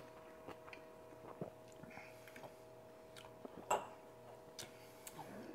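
Faint chewing and mouth noises from someone eating a Chicago-style hot dog with pickle, with scattered small clicks over a steady faint hum, and one short louder mouth or throat sound about two-thirds of the way through.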